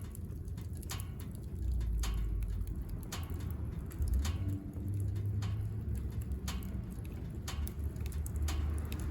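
Wood burning in a wood stove, crackling with irregular sharp pops over a steady low rumble of the fire.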